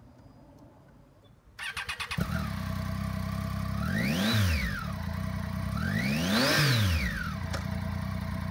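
Triumph Tiger 800 XRx's three-cylinder engine with a Yoshimura RS4 exhaust, cranked on the starter and catching about two seconds in, then idling and revved twice, each rev rising and falling smoothly.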